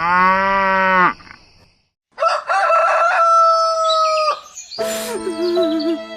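A cow's moo ends about a second in; after a short gap a rooster crows with a long held note, and music starts near the end.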